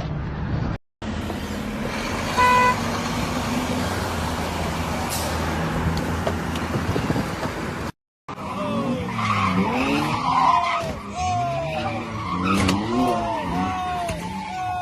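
Car traffic and road noise heard from a dashcam, with a short beep about two and a half seconds in, then tyres squealing over and over in high sliding tones during a skid.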